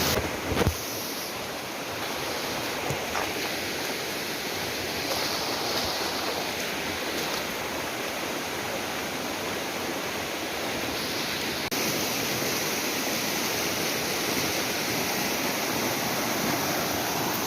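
Mountain river rushing steadily. A couple of brief knocks near the start.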